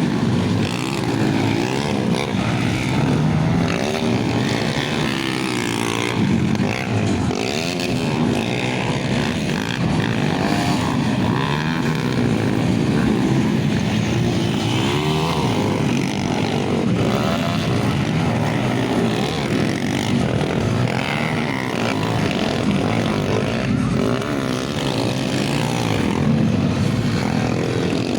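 Motocross bike engines revving, their pitch rising and falling again and again.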